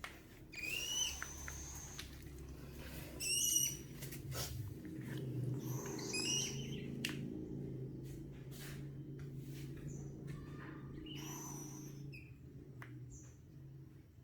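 Owl chick calling: a few short, high calls spaced a few seconds apart, over a faint steady low hum.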